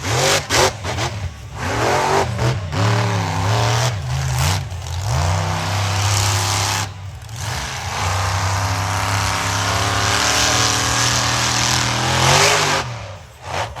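Monster truck engine revving hard: a few quick throttle blips at first, then the revs rise and waver, dip briefly about halfway, and are held high for several seconds before dropping off near the end.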